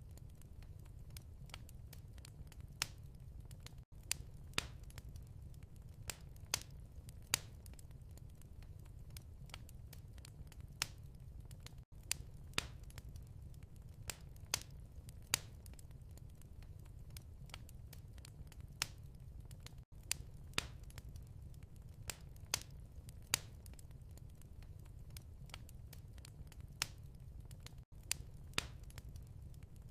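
Wood fire in a fireplace crackling, with irregular sharp pops over a steady low rumble. Brief dropouts come about every eight seconds, as in a looped recording.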